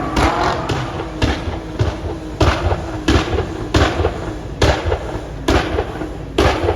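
A run of about ten sharp bangs at uneven spacing, roughly one every half second to a second, over a steady low rumble.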